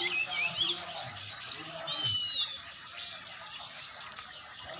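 Oriental magpie-robin (kacer) singing: a run of short whistled notes and chirps, with a quick high whistle about two seconds in as the loudest note.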